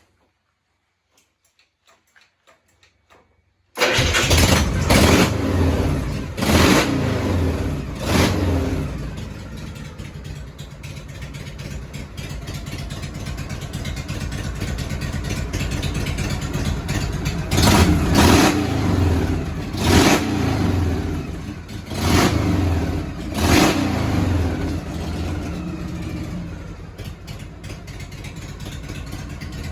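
Harley-Davidson Shovelhead V-twin engine starting suddenly about four seconds in, after near silence, and revved in three quick blips. It then settles to idle, is blipped about five more times in the middle, and drops back to idle.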